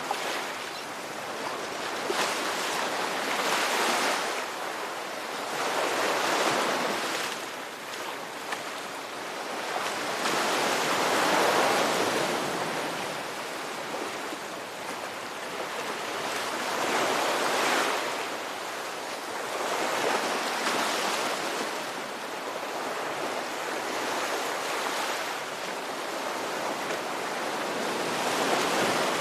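Ocean waves breaking and washing in, a steady rushing noise that swells and fades with each wave every few seconds.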